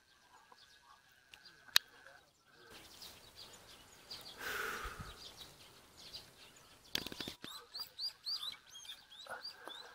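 Small songbirds chirping, a quick series of short repeated notes that is densest near the end. A single sharp click comes about two seconds in.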